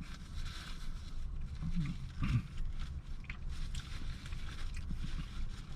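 A person chewing food, with short murmured hums about two seconds in, over a steady low rumble.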